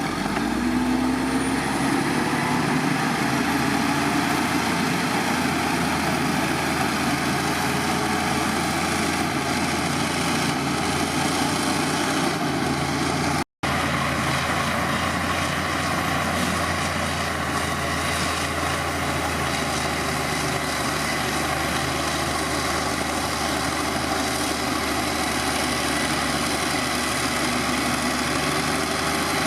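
Heavy diesel engine of earthmoving machinery running steadily. The sound drops out for an instant about halfway through.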